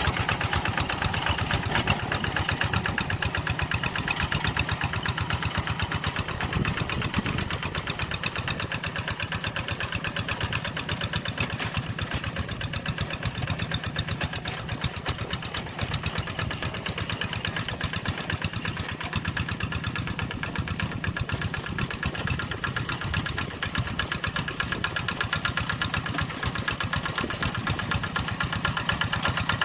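Tractor engine running steadily, with a rapid, even beat of firing strokes.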